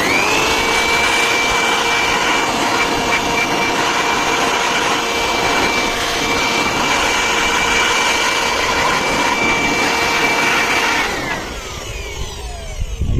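Jet pressure-washer pump for air-conditioner servicing, running with a steady high whine over the hiss of the water spray. It is switched off about eleven seconds in, and the whine falls away as the motor winds down.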